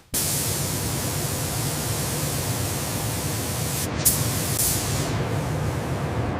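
A steady, loud hissing spray of high-pressure air or water that starts abruptly and has a brief break just before four seconds in.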